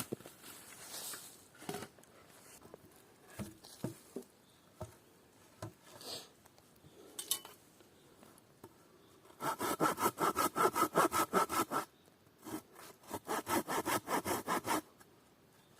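Scattered light knocks and handling sounds, then, about nine seconds in, a handsaw cutting wood in two runs of quick back-and-forth strokes, each lasting about two and a half seconds with a short pause between.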